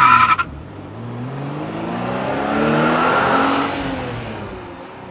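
Rebuilt Porsche 914 2.0 air-cooled flat-four engine firing up with a brief loud high-pitched sound. It revs up to a peak about three seconds in, then drops back and settles to a steady idle.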